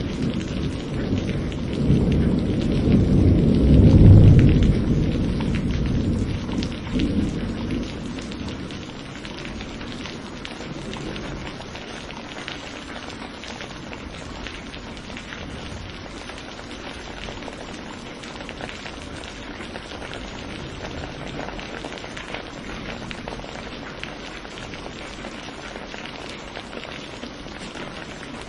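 Thunder rumbling over steady rain, loudest about four seconds in and dying away by about eight seconds, then steady rainfall alone.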